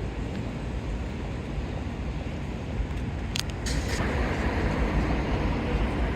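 City street traffic: a steady low rumble of passing vehicles, with two short sharp clicks about three and a half seconds in, after which the rush of noise grows louder.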